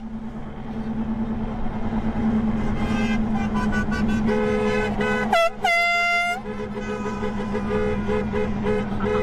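Vehicle horns honking in a convoy over a steady low hum: a two-note horn sounds on and off from about four seconds in, a louder, higher horn blast about a second long cuts in halfway through, and short toots follow near the end.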